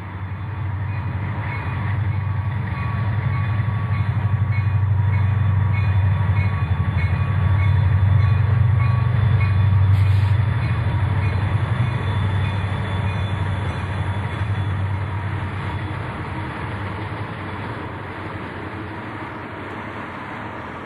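Several Conrail diesel locomotives pulling a loaded ore train pass close by, their engines working and trailing smoke. The low engine drone swells as the units go by, then fades through the second half as the ore cars roll past.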